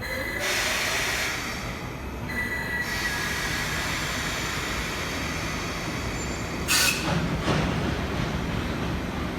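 JNR Class EF65 electric locomotive starting a freight train, its nose-suspended traction motors growling under load, with high wheel squeal in the first few seconds. A short loud burst of noise cuts in about seven seconds in.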